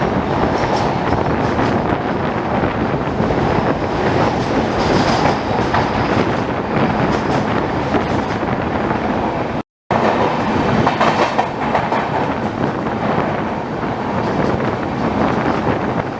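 Indian Railways passenger train running along the track, heard from on board: a steady rumble of wheels on rail with a clickety-clack from the rail joints. The sound cuts out for a split second about ten seconds in.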